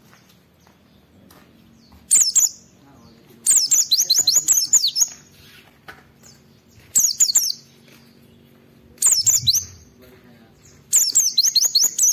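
A white-eye (pleci) singing hard in a series of five quick phrases, each a rapid run of high, down-sweeping chattering notes, with short pauses between them. This is full, vigorous song of the kind keepers use to provoke other white-eyes into answering.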